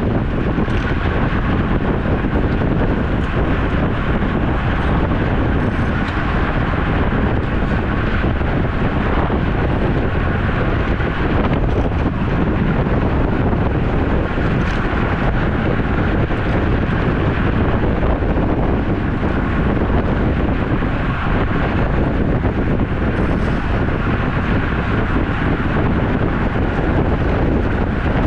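Steady rush of wind buffeting the microphone of a camera carried on a moving road bicycle.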